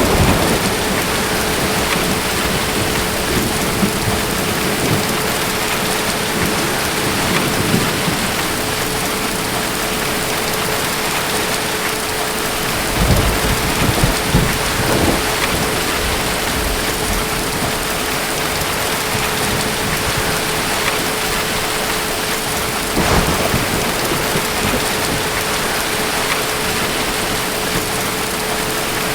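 Steady heavy rain falling, with distant thunder rumbling low: once at the start, a longer roll about halfway through, and again about three-quarters of the way through.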